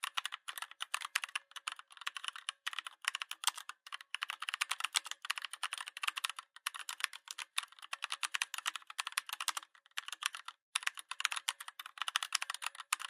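Rapid typing on a computer keyboard: fast runs of key clicks broken by short pauses, the longest about a second, around ten seconds in.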